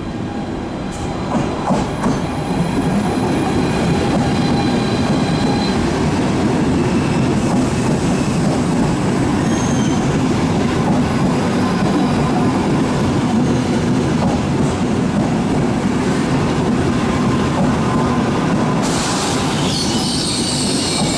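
Frecciarossa high-speed electric trainset rolling slowly into the platform and along it, a steady rumble of wheels on rail with thin wheel squeal, louder over the first few seconds as it draws alongside. A higher hiss joins near the end.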